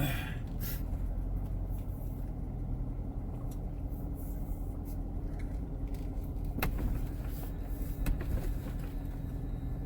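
C7 Corvette's V8 engine running with a steady low drone, with a few sharp clicks about seven and eight seconds in.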